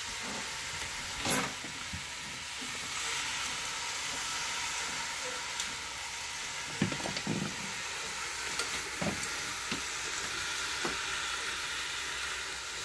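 Itadori (Japanese knotweed) shoots sizzling as they stir-fry in a saucepan on a gas burner, with a steady hiss. Cooking chopsticks knock against the pot a few times in the second half, and one sharp clack about a second in is the loudest sound.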